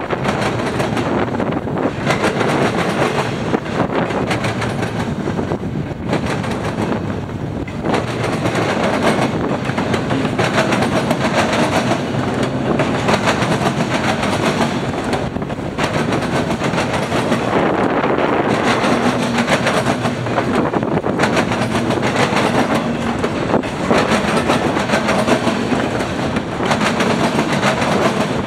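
Freight train cars rolling past, their wheels clattering steadily over the rail joints.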